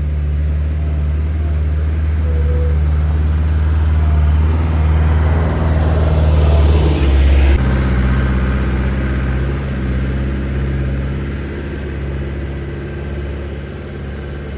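Skid steer loader's engine running steadily, growing louder for several seconds and then changing its note abruptly about halfway through.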